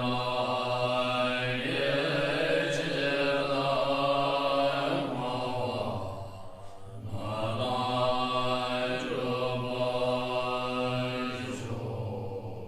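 Buddhist mantra chanting in a low voice, long held notes with a short pause for breath about six and a half seconds in.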